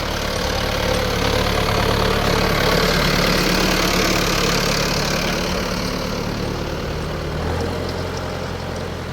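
Mahindra tractor's diesel engine running steadily, growing louder over the first few seconds and then easing off, its low note shifting near the end.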